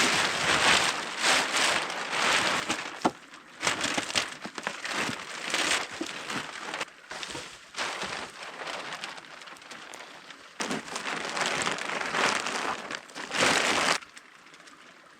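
Close rustling and crinkling of gear being handled and packed, in irregular loud stretches with small clicks, stopping abruptly near the end.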